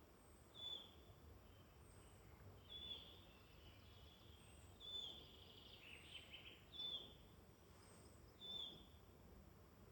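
Faint woodland birdsong: a bird repeats a short, high, falling call five times, about every two seconds, with a brief lower rattling phrase from another bird around the middle.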